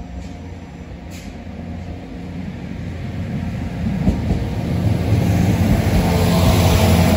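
Irish Rail 22000 Class InterCity diesel railcar approaching and running past the platform, growing steadily louder. A steady low engine drone builds, with rising wheel and rail hiss as the train draws level and one sharp click about four seconds in.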